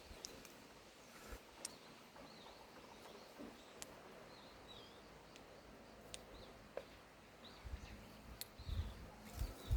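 Faint outdoor ambience with small birds chirping, short high calls scattered throughout, and a few sharp ticks. Low rumbling thumps come in near the end.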